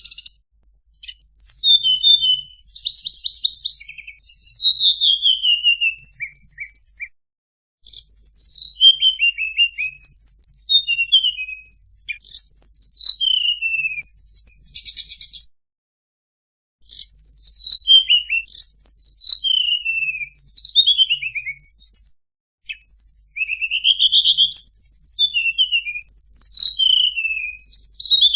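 Tledekan songbird singing a fast, varied song of high chirps, descending trills and buzzy rattles, in bouts of a few seconds broken by short pauses.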